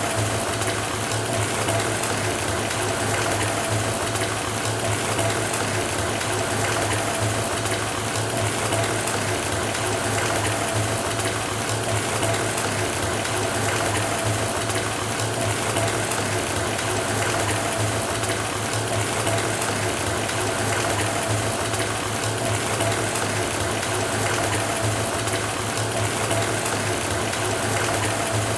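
Water running from a faucet into a filling bathtub: a steady rushing with a low rumble and a steady hum running through it.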